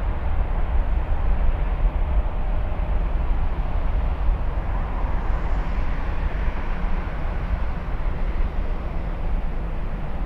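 Four-engine Airbus A340-600 jet at takeoff thrust, its Rolls-Royce Trent 500 turbofans giving a loud, steady deep roar that eases off slightly over the last few seconds.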